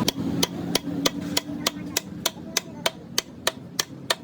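A steady run of hammer blows, about three strikes a second, a dozen or so in all.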